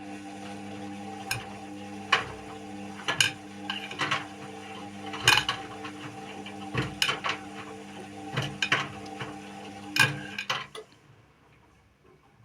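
Indesit WIU 81 washing machine's drum turning during the wash, with a steady motor hum and irregular metallic clinks and knocks as the load tumbles. The drum stops shortly before the end.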